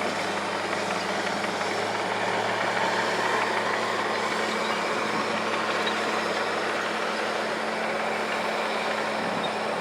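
Steady hum of an engine running at idle under a constant rushing noise, unchanging throughout.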